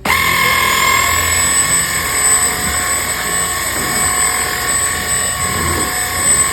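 Bissell CleanView cordless stick vacuum switching on: the motor starts suddenly and runs steadily with a high whine over the rush of suction air.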